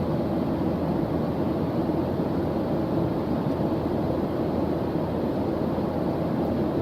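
Steady white-noise background track: an even, unchanging rushing hiss, fullest in the low and middle range.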